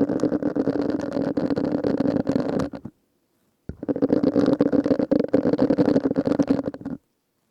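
Silicone scrubbing sponge rubbed and squeezed right at the microphone: two spells of dense, rapid crackling of about three seconds each, with a short silent pause between.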